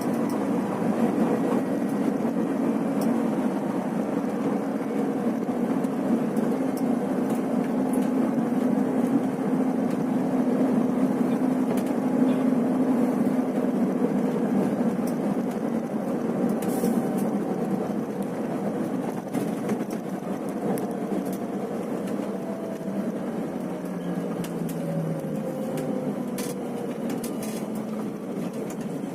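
Scania bus engine running with a steady drone and road noise, with occasional small rattles and clicks. The sound eases a little in the second half.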